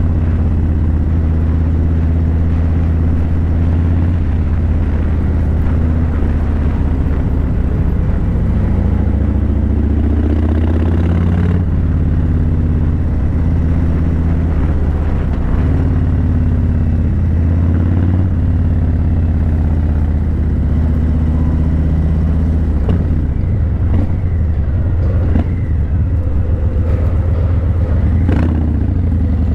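Harley-Davidson Breakout 117's Milwaukee-Eight 117 V-twin running through Vance & Hines Eliminator 300 slip-on mufflers while cruising, a deep steady rumble whose pitch rises and falls several times with the throttle.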